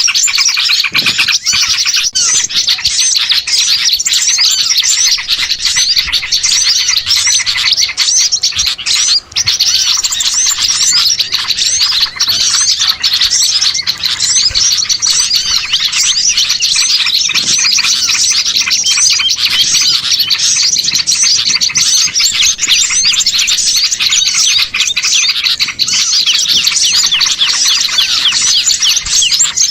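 Dense, unbroken chattering and chirping of many small songbirds calling over one another. It is a bird-trapping lure recording of mixed small birds in a noisy chorus.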